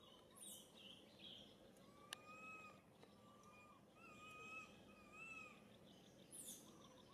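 Faint outdoor ambience with a bird calling: a run of about four short, slightly wavering whistled notes in the middle, and two quick high chirps that fall in pitch, one near the start and one near the end. A single sharp click sounds about two seconds in.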